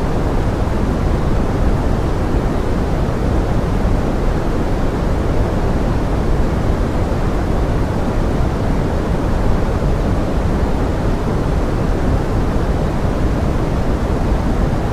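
Steady pink noise mixed as forest rain: an unbroken rushing hiss, strongest in the low end, with no separate drops or events.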